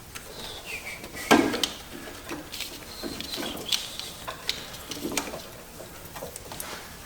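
Spark plug wire boots being pushed and worked onto the ignition coil towers of a GM 3800 DIS coil pack: rubbery squeaks and small plastic clicks, with a sharper knock about a second in.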